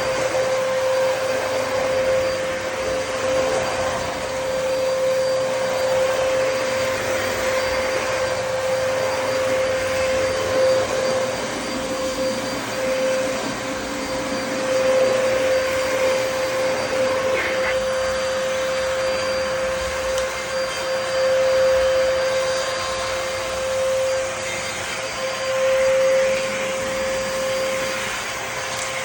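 Dyson DC33 upright vacuum cleaner running continuously as it cleans a kitchen floor: a steady motor whine over rushing suction noise, swelling and easing slightly as it is pushed back and forth.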